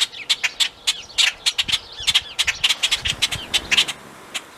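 Agitated birds giving rapid, sharp alarm chips, several a second, with short chirps between them: mobbing calls, which the homesteader takes as a sign that a snake may be up in the tree after their nests.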